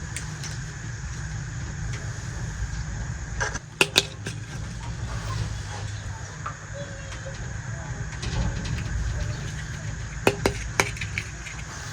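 Sharp little clicks and taps of small toy pieces being handled, in two short clusters (a few clicks about four seconds in and three near the end), over a steady low rumble.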